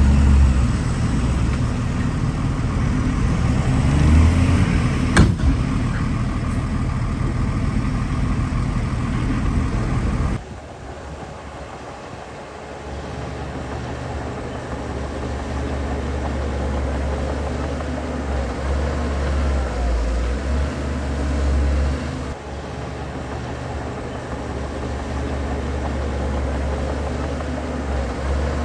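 Diesel engines of heavy earthmoving machinery running under load. There is a sharp knock about five seconds in. The sound drops abruptly about ten seconds in, then the engine noise builds again and rises and falls.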